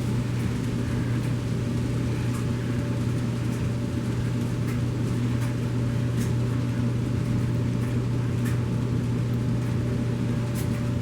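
N-scale model trains running on the layout: a steady low hum with faint scattered light clicks.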